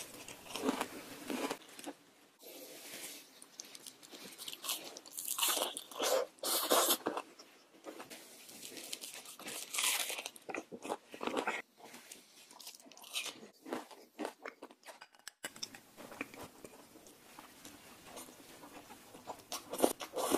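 Close-miked crunching and chewing of a crispy fried hash brown patty, bitten and chewed in irregular bursts of crunches.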